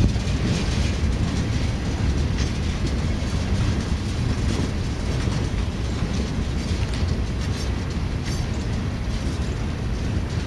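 Freight train cars rolling past: a steady rumble of steel wheels on rail, with scattered clicks as the wheels pass over rail joints.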